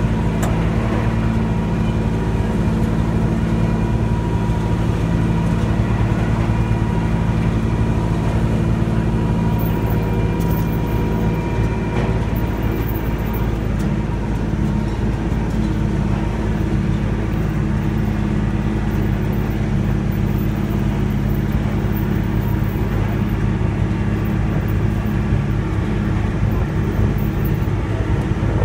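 Train running steadily along: a constant low engine drone over a rumble of the moving cars.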